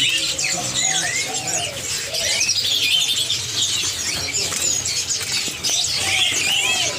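Many caged songbirds chirping and calling over one another, a dense chatter of short high whistles and twitters.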